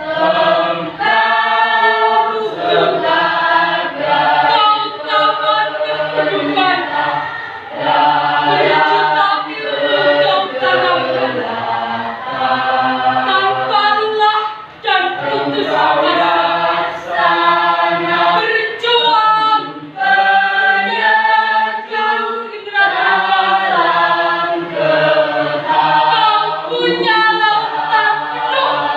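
Junior high school choir singing together, the phrases running on with brief pauses between lines.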